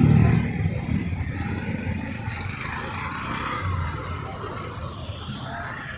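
Street traffic: a motor vehicle passing close, loudest at the very start and fading away, over a steady low rumble of traffic.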